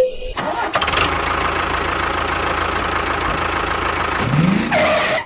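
A small engine starts with a sudden burst and then runs steadily with a fast, even pulse. A short rising whine comes near the end, and the sound cuts off abruptly.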